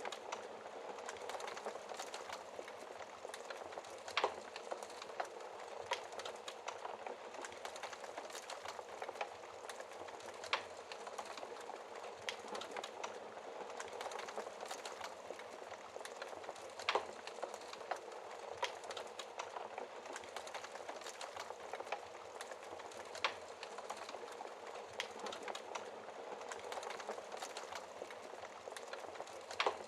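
Wood fire burning behind a glass fireplace door: a steady soft crackle with frequent small ticks and a louder single pop about every six seconds.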